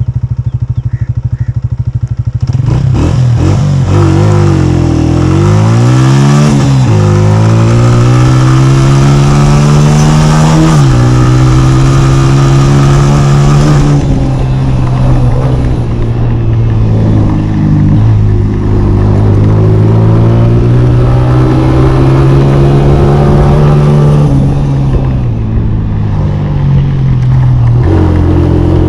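Honda CG 125 motorcycle's single-cylinder four-stroke engine running steadily, then revved up and down a few times. It then climbs slowly in pitch with several sudden drops, as when riding through gear changes.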